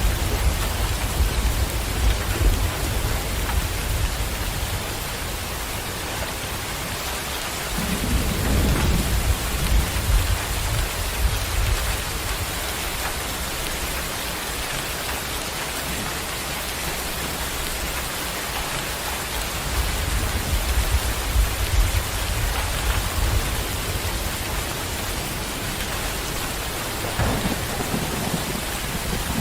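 Steady rain with low rolling thunder that swells and fades four times: at the start, about eight seconds in, around twenty seconds in and near the end.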